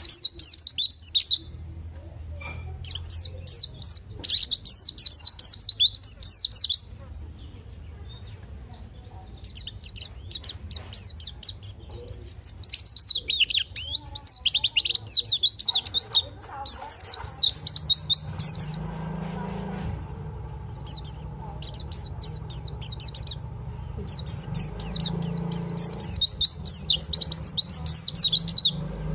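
White-eye (pleci) singing in phrases of rapid, high twittering chirps, each a few seconds long with short pauses between. This is the energetic full song that keepers play as a tutor recording for cage birds.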